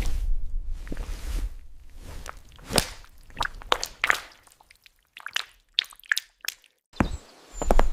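A run of about a dozen irregular sharp, wet-sounding clicks and squishes, after a low rumble at the start.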